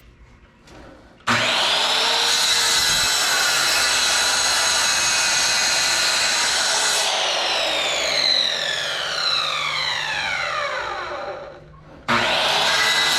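Electric saw with a circular blade switched on about a second in and running at full speed, then switched off and spinning down with a falling whine; it is started again near the end.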